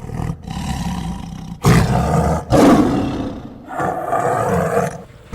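A big cat roaring: a run of loud, rough roars, the two loudest back to back about two seconds in, with a third just after.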